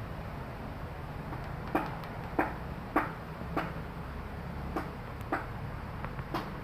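A series of about seven sharp taps or knocks, spaced roughly half a second to a second apart, over a low steady hum.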